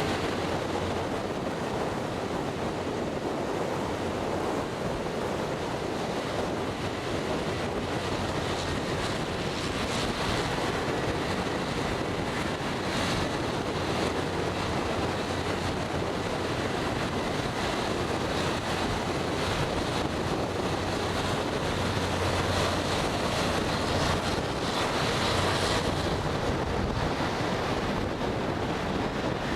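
Rail grinding machine working along the track: the grinding wheels on the railhead make a steady, loud rasping roar over a low engine hum.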